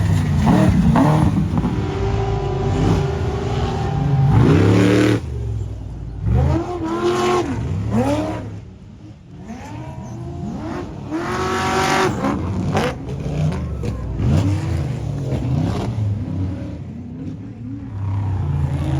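Prerunner off-road race truck engines revving hard, the pitch climbing and dropping again and again as the throttle is worked, with a quieter lull about halfway through.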